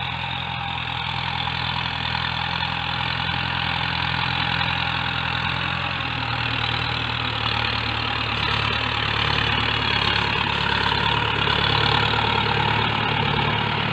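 Farm tractor engine running steadily as it plows a field, growing a little louder about halfway through.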